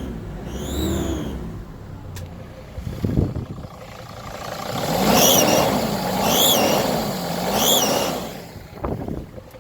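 Mercedes Sprinter T1N's 2.7-litre five-cylinder diesel, with a whistling chirp that rises and falls in pitch in repeated swells: once about a second in, then three louder ones in the second half. The noise sounds like turbo noise but comes from an exhaust manifold leak at loose front manifold bolts, the escaping exhaust playing the gasket like a reed.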